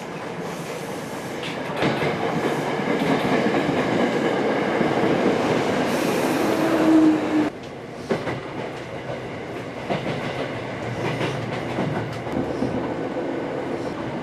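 Seibu-Ikebukuro Line electric commuter train pulling into a station platform, growing louder, with a brief squeal just before the sound cuts off abruptly. It is replaced by the steadier running noise heard inside a moving train car, with scattered clicks from the rails.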